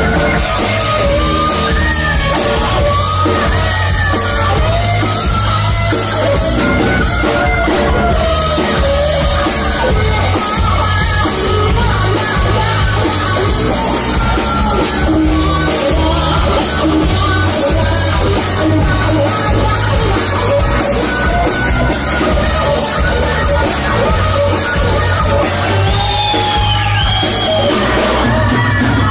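A band playing a song with a sung vocal over a steady bass and drum beat.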